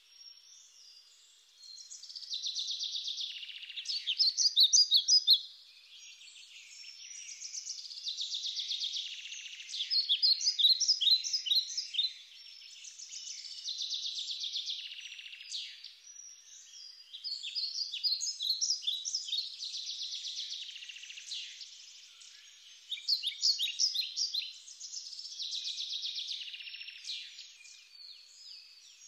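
Bird song: a songbird singing short phrases of fast chirps and trills, a new phrase every few seconds.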